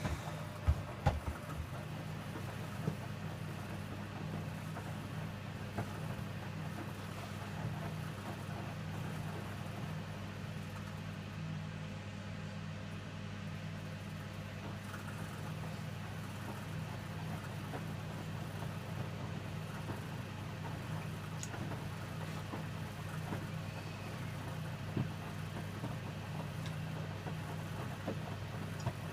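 Electrolux W455H commercial washing machine running mid-wash with its water heater on: a steady low hum, with a few sharp clicks about a second in.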